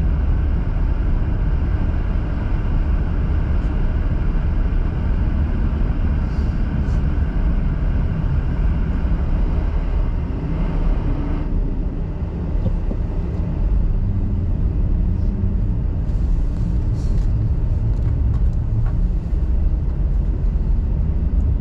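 A car being driven, giving a steady low rumble of engine and road noise. The higher hiss drops away suddenly about halfway through.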